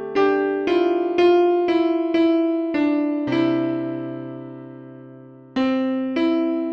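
Solo piano playing a slow melody: notes struck about twice a second over sustained lower notes, then a chord left to ring and fade for about two seconds before the melody resumes.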